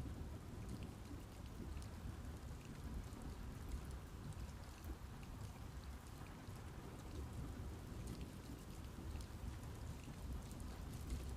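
Steady rain falling on leaves and trees in a forest, a constant patter with many small individual drop ticks.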